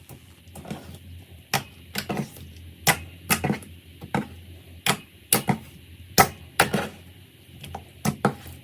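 Slime being pressed and worked by hand, giving sharp crackling clicks at uneven intervals, about two a second.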